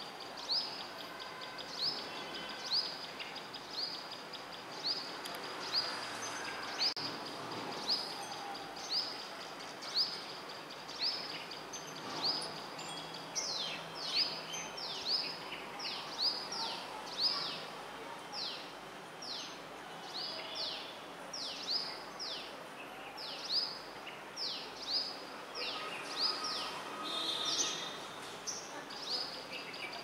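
Small birds chirping: short, high notes that drop in pitch, repeated steadily, about one a second at first and coming faster, around two a second, from about a third of the way in.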